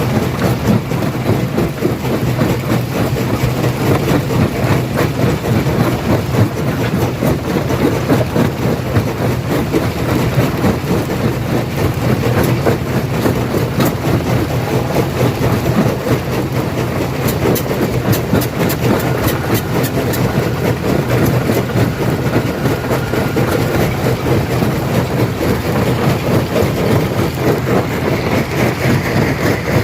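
Stone crusher running and crushing rock: a steady heavy rumble with a continuous dense clatter of breaking stone.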